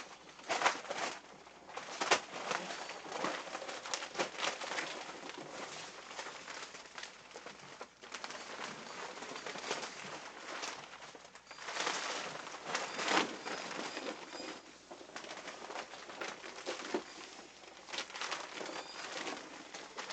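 Clear PVC plastic rain poncho rustling and crinkling in irregular surges with the wearer's movement.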